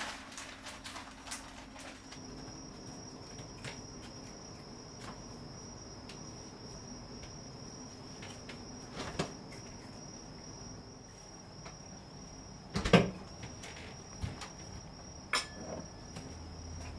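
Crickets trilling in one steady high note, with a few sharp household knocks like a cupboard door, the loudest about two-thirds of the way in.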